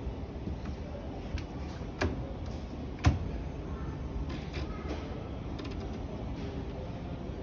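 Two sharp knocks about a second apart, the second the louder, then a few lighter clicks, over steady background noise.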